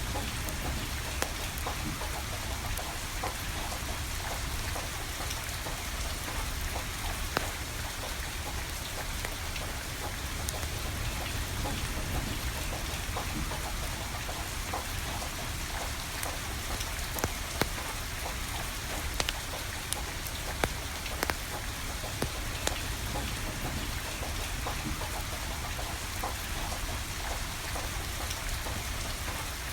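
Steady rain falling, with a wood fire crackling underneath: a few sharp pops scattered through, more of them past the middle.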